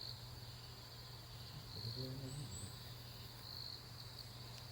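Crickets chirping: a steady high trill that swells every second or two, over a low steady hum, with a brief faint voice about two seconds in.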